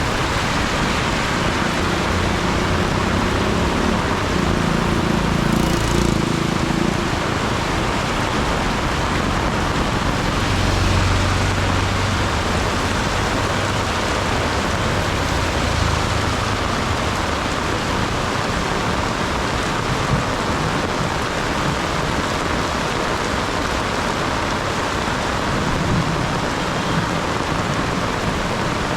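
Heavy rain pouring steadily, with the low hum of vehicles passing a few times, about four seconds in, around ten to sixteen seconds in, and near the end.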